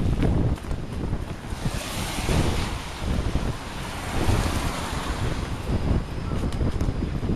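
Typhoon-force wind buffeting the microphone with a heavy, churning rumble. A gust's rushing hiss swells about a second and a half in and dies down again a few seconds later.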